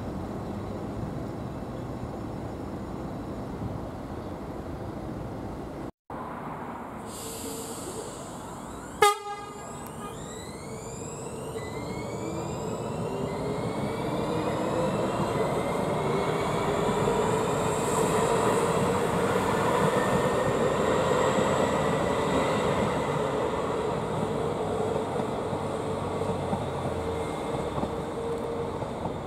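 Electric rail vehicle running past, with a motor whine whose pitch sweeps and then slowly rises under a rumble that swells and eases off. A sharp click comes about nine seconds in.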